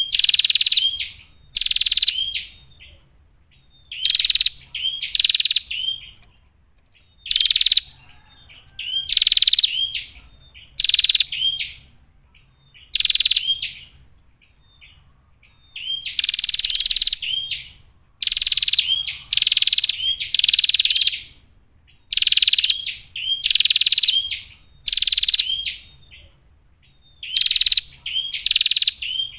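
Female prinia (prenjak) calling over and over: short, rasping, high calls of under a second each, given singly or in quick runs of two or three, with gaps of a second or two between runs.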